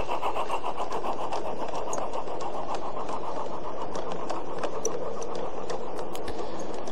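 Small 16mm-scale garden railway locomotive running on its 45mm-gauge track: a steady mechanical chatter with many light clicks.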